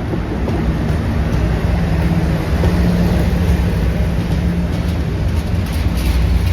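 Class 56 diesel locomotive's Ruston-Paxman V16 engine running as it hauls a train of fuel tank wagons: a loud, steady low drone with a humming tone that fades out about two-thirds through, over a constant low rumble.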